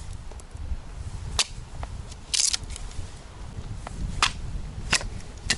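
Firewood cracking: about five sharp, irregular snaps, one of them a little longer, over a low wind rumble.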